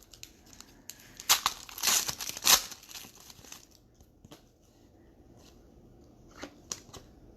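Wrapper of a trading card pack being torn open and crinkled, in a few loud rustling bursts in the first few seconds, then lighter scattered rustles and clicks as the cards are handled.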